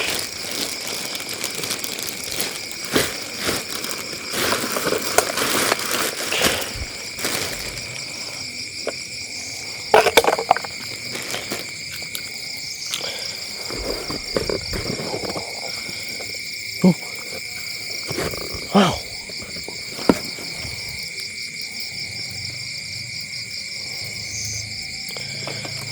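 Night-time chorus of crickets or similar insects: a steady, high, pulsing trill. Scattered sharp cracks and knocks sound over it, loudest about ten seconds in.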